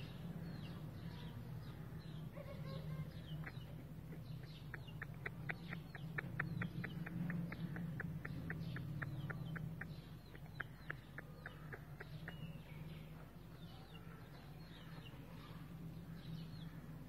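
A bird clucking in a rapid series of short clicking notes, about five a second, for some six seconds in the middle, with small birds chirping faintly throughout and a steady low hum underneath.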